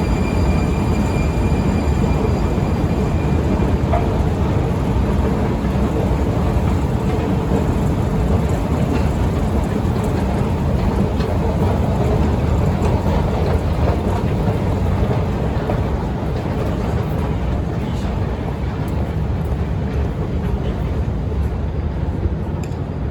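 Prague Metro train running in the station, a loud steady noise with a faint high whine that fades out in the first few seconds.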